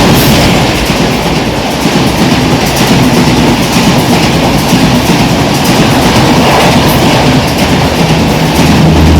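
Train running past, a loud steady rumble and rattle of wheels on the rails.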